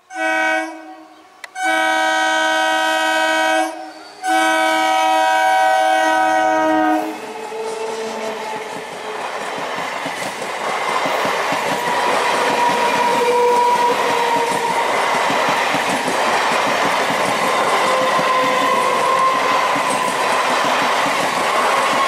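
EMU local train sounding its horn three times, a short blast and then two long ones, as it approaches. It then runs past at speed: a rising, loud rumble of wheels on rail with clickety-clack, and a steady whine running through it.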